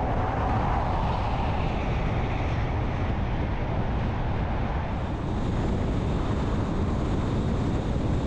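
Steady road and wind noise of a vehicle driving at highway speed, swelling in the first second, then holding level.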